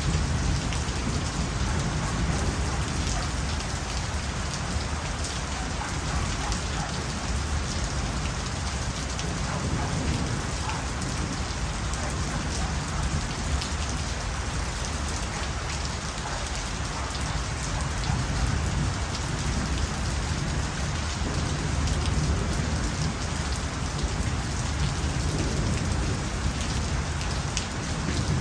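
Steady rain falling, with many small drop ticks over an even hiss and a low rumble underneath.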